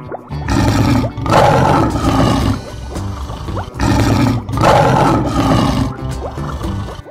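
Lion roar sound effect, two long roars of about three seconds each, one right after the other, over background music.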